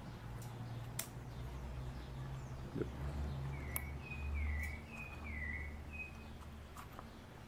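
A small bird gives a run of short chirps through the middle, over a low steady hum. A few light clicks come from hands handling motorcycle cables and fittings.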